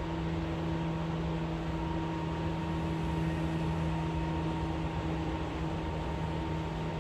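Seibu 4000 series electric train running at speed, heard from inside the carriage: a steady rumble with a constant low hum and a fainter higher tone.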